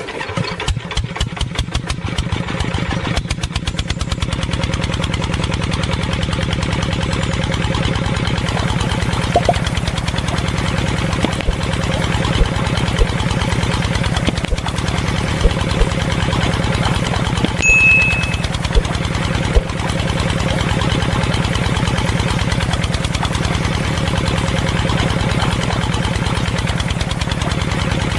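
Small engine starting, its separate firing beats quickly running together into a steady run, with a few sharp knocks partway through.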